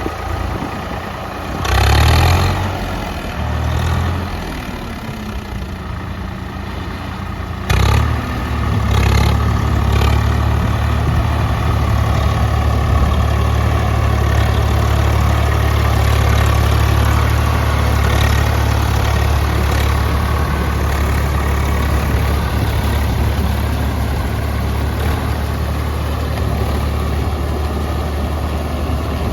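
Heavy diesel engine: two short bursts of throttle in the first few seconds, then about eight seconds in it steps up sharply to a loud, steady low running note.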